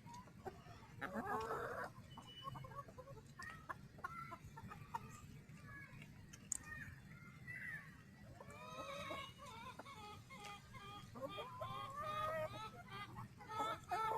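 A flock of chickens clucking, with many short overlapping calls that get busier in the second half.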